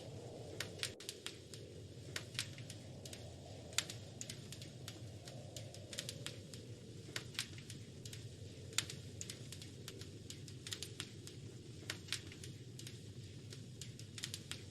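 Wood fire crackling in a fireplace: irregular sharp pops and snaps, several a second at uneven spacing, over a steady low rush of the flames.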